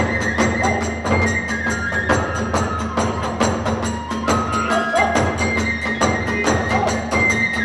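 Hiroshima kagura accompaniment: a bamboo transverse flute holds a high melody that steps between held notes over a fast, steady beat of drums and small hand cymbals.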